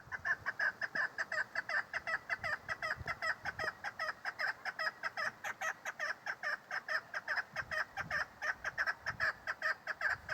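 Female chukar partridge (chakor) calling: a fast, unbroken run of short clucking notes, about six a second.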